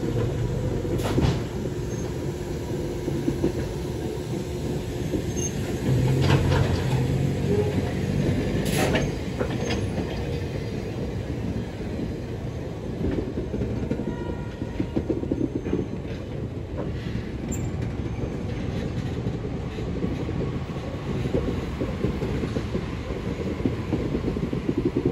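Meitetsu electric train running along the track close by, a steady rumble with the wheels knocking over rail joints now and then.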